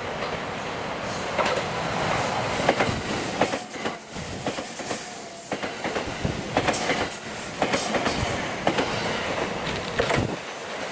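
JR West 227 series six-car electric train passing close by, its wheels clacking repeatedly over the rail joints in quick clusters over its steady running noise.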